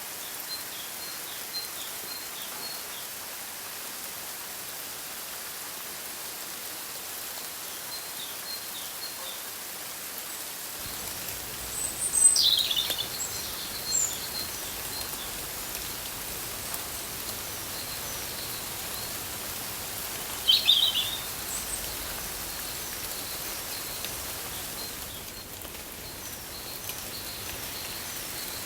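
Birds calling over a steady hiss like rain: a scatter of small high chirps, and two louder calls that sweep downward, one about twelve seconds in and one about twenty seconds in.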